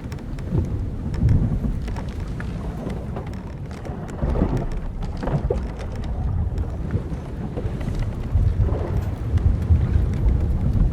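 Old wooden sailing ship at sea: a heavy, uneven rumble of wind and waves with scattered patters of spray or rain, and a few short creaks of the wooden hull and rigging, the first about four seconds in.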